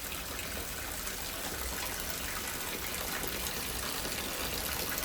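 Torrential rain pouring down in a steady, even hiss of water, growing slightly louder toward the end.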